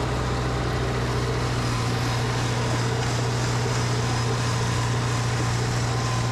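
Tractor engine running steadily at constant speed, a continuous low hum with no change in pitch or level.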